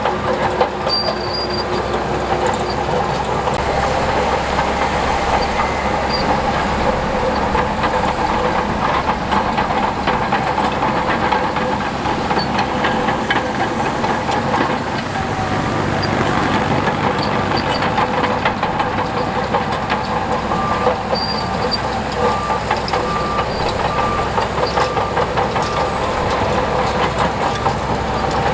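Heavy earthmoving machinery at work: diesel engines running steadily under dense metallic clanking and rattling.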